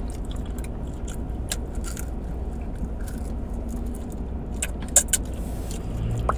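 Chewing and crunching on chicken wings: scattered short crisp crunches and clicks over a steady low hum, with two louder crunches about five seconds in.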